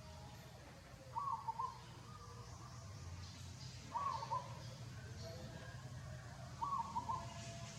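A bird calling outdoors, three short two-part calls evenly spaced about two and a half seconds apart, over a faint steady low rumble.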